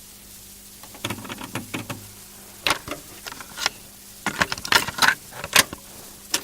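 Irregular sharp clicks and clacks, some in quick clusters, over a steady low hum; the sounds start suddenly and stop abruptly at the end.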